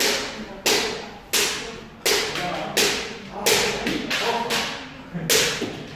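Kendo sparring: a quick run of sharp cracks from bamboo shinai striking armour and feet stamping on a wooden floor, about eight in all, roughly one every 0.7 s. A shouted voice is heard briefly between them.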